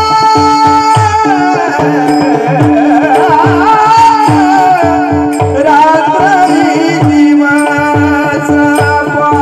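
Marathi devotional bhajan singing: a voice carrying an ornamented, wavering melody over a steady sustained drone, with deep hand-drum strokes about twice a second.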